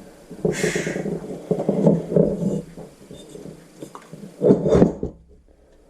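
Rubbing and scraping of metal parts being handled as the intake valve is fitted into the motorcycle's cylinder head, with a short hiss about half a second in.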